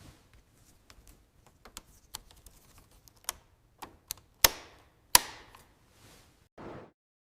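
Hand work on metal parts: a run of light clicks and taps, then two sharp metallic knocks with a ringing tail, about four and a half and five seconds in. A short scuff follows near the end, and the sound then cuts off.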